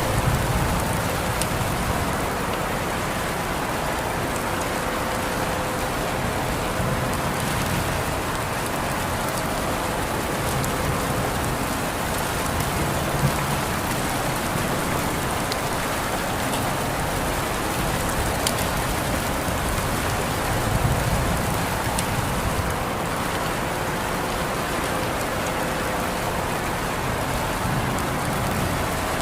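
Steady rain falling, a continuous even hiss with a few sharper drop ticks now and then.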